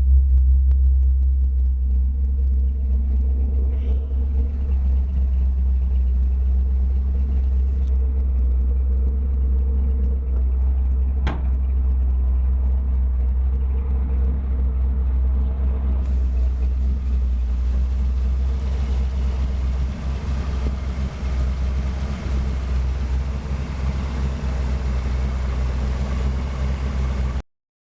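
Old truck engine idling steadily on a newly installed Blue Phoenix electronic ignition, with a single sharp click partway through. The sound cuts off abruptly just before the end.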